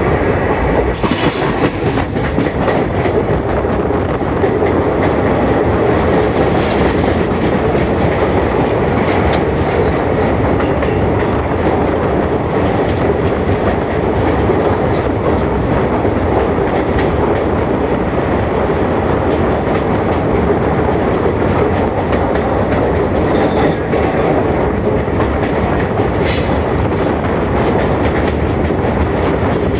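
Passenger train running steadily on the line, heard from on board, with the steady rumble and clatter of wheels on rails. Brief high-pitched bursts come about a second in and again near the end.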